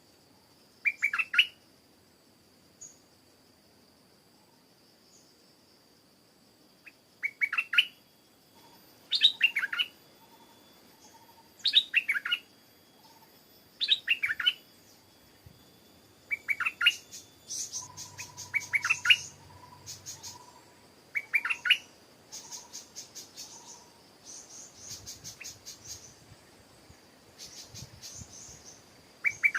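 Stripe-throated bulbul calling: short phrases of quick rising notes repeated every two seconds or so. From about halfway, higher chattering from other birds joins in. A faint steady high tone runs underneath.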